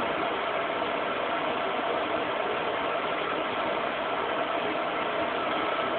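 A steady mechanical hum with hiss, unchanging throughout, with a couple of faint steady tones in it.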